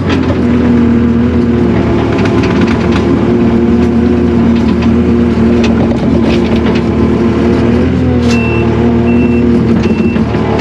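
Takeuchi TL240 track loader's diesel engine running steadily, with scattered knocks from the machine. Near the end a back-up alarm beeps three times as it reverses.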